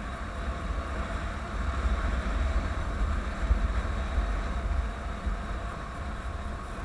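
Honda CBF 150's single-cylinder engine running steadily while riding, with wind rumble on the microphone.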